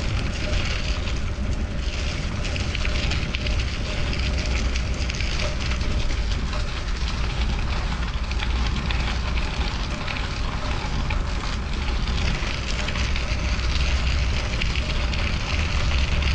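Steady riding noise from a bicycle in motion: a low rumble of wind on the microphone under a continuous crackling hiss of tyres rolling on the road.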